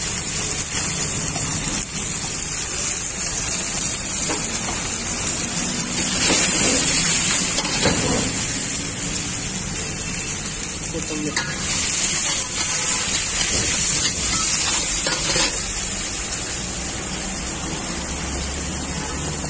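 Masala paste sizzling in hot oil in a large iron wok, a steady frying hiss that grows louder twice, about six seconds in and again around twelve seconds.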